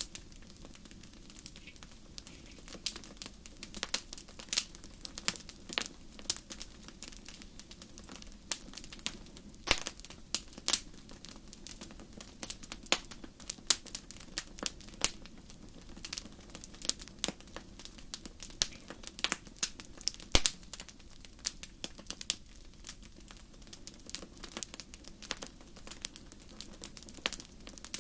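Wood fire crackling in a fireplace: irregular sharp pops and snaps, a few louder ones, over a low steady rumble of the burning.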